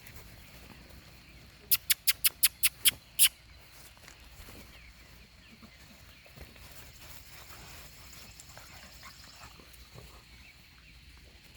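A quick run of about eight sharp clicks near the start, then faint scuffling and pattering as dogs move about.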